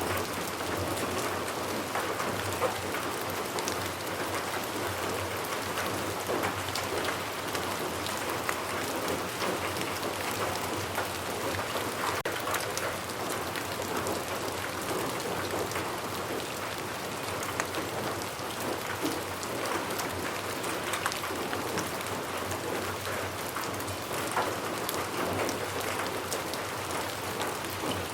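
Steady rain falling on a surface, a dense even patter with many individual drops ticking.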